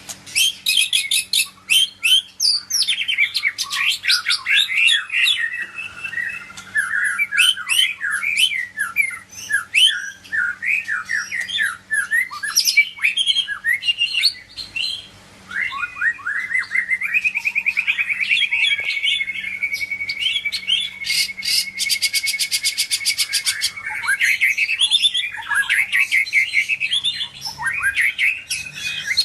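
White-rumped shama (murai batu, Medan type) singing a long, varied song of quick whistles, chirps and trills. About two-thirds of the way in it holds one steady, fast rattling trill for several seconds before breaking back into varied phrases.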